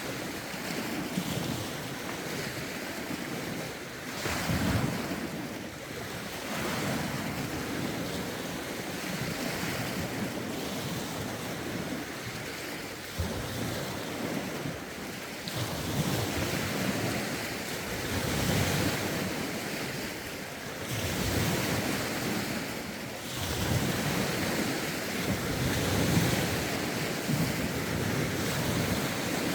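Lake waves lapping and breaking against the shore in a rough wind, an uneven wash that swells every few seconds, with wind buffeting the microphone.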